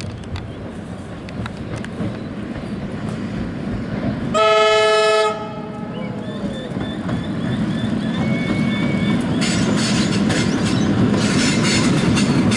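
Train approaching with a rumble that grows louder throughout. About four seconds in, its horn sounds once for about a second. Then comes a faint high wheel squeal, and from near the end a rising clickety-clack of wheels over the rail joints.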